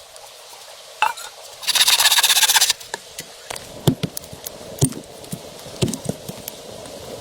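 A loud crackling rustle lasting about a second, then three or four sharp knocks about a second apart, over a steady hiss.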